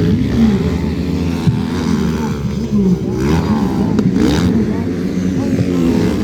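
Several motocross bikes' engines revving up and down on the track, their pitches rising and falling and overlapping. One bike comes louder about three seconds in, then fades again.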